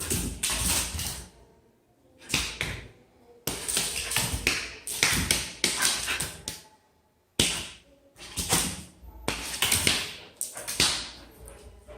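Vietnamese H'Mong bobtail dog making a string of short, irregular noisy sounds close by, each lasting under a second, with brief gaps between them.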